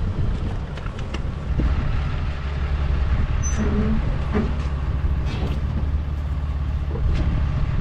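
An engine running steadily with a low rumble, with a few light clicks and knocks over it.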